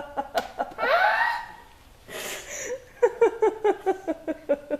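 Laughter: a person laughing in quick, rhythmic bursts, with a breathy rising sound about a second in and a second run of laughing about three seconds in.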